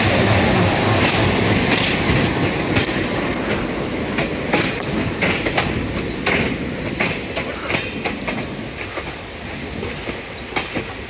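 Passenger train pulling away from the station: steady running rumble with the wheels clicking and clattering over rail joints and points, heard from a coach window. The clicks are sharp and irregular and come more often from about two seconds in.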